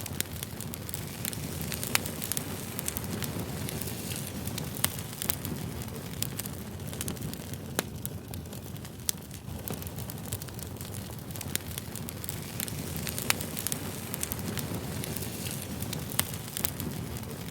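Campfire burning: a steady low rush of flame with frequent irregular sharp pops and snaps from the burning wood.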